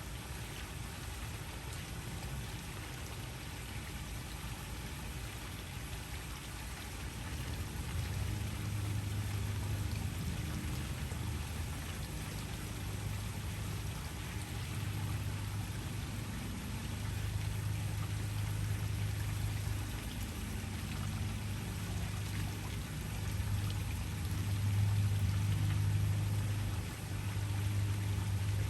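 Waterfall: a steady rush of falling water, with a low rumble that swells and fades from about a third of the way in.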